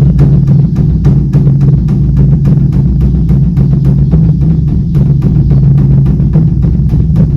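A beopgo, the large Korean Buddhist dharma drum, struck by a monk with two sticks in a fast, even run of about six strokes a second. Its deep boom rings on steadily beneath the strokes.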